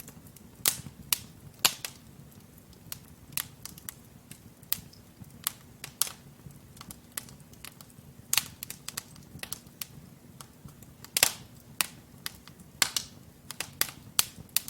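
Wood fire crackling in a fireplace: burning logs popping and snapping in irregular sharp cracks, several a second, some louder pops standing out, over a low steady rumble of the flames.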